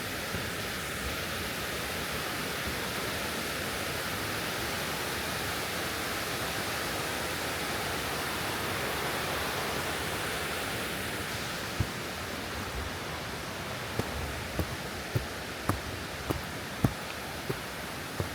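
Steady rush of a mountain waterfall and stream. Starting about two-thirds of the way in, footsteps on the trail add short knocks at a walking pace of roughly two every second.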